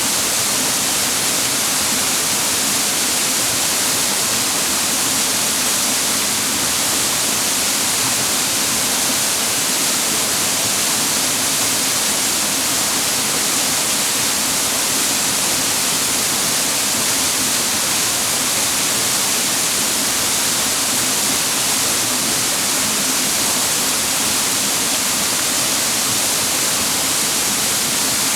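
Clear mountain water rushing over rocks in a steady, unbroken rush.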